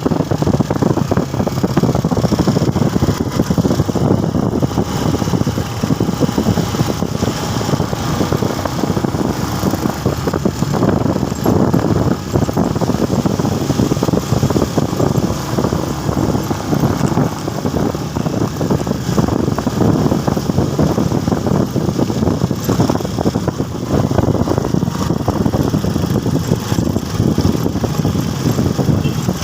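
A motorcycle being ridden on the road: a loud, steady low rush of engine and road noise with no let-up.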